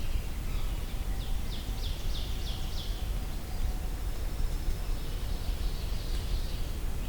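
Brown creeper singing: a run of about six high, thin, downslurred notes, then a thin high held note a little later. A low rumble of gentle breeze on the microphone runs under it.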